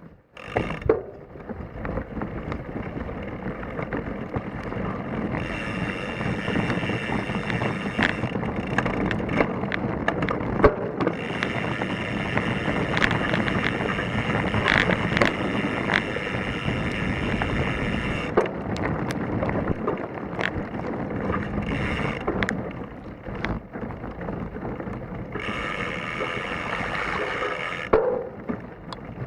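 Mountain bike descending a rocky, loose trail: a constant clattering rattle of the bike and its suspension fork over rocks, with sharp knocks from impacts and wind on the microphone. A high buzzing tone comes in three stretches, in the middle for several seconds and again near the end.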